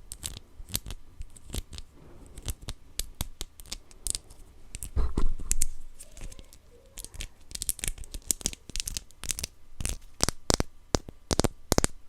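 Close-miked handling of a small plastic blind-box figure and its packaging: irregular sharp taps and clicks with crinkling and rustling. A louder rustle comes about five seconds in, and the taps come quicker near the end.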